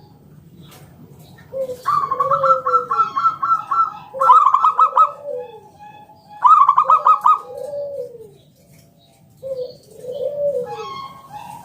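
Zebra dove (perkutut) singing: about four phrases, each a quick stutter of notes followed by a lower, rounded coo, with a short pause between the third and fourth.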